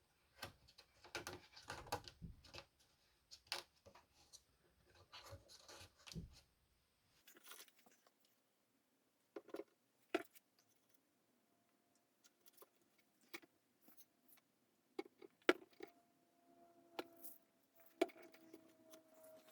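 Faint, scattered clicks and light taps, with near silence between them and a faint steady tone in the second half.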